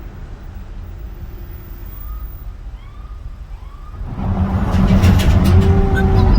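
Road and engine noise of a moving car heard from inside the cabin, a steady low rumble that grows much louder about four seconds in. A few faint, short rising-then-falling tones come through near the middle.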